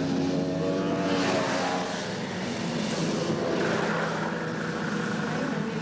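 Snowmobile engines running at a grass drag race, a steady engine drone whose pitch shifts a little.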